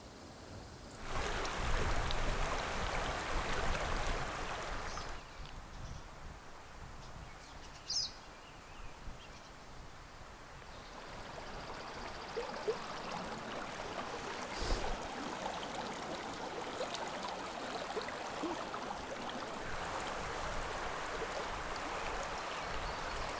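Small creek running, a steady rush of water that is louder for the first few seconds.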